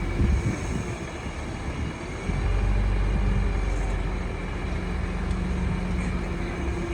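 Heavy diesel engine of earthmoving machinery running steadily, growing louder about two seconds in.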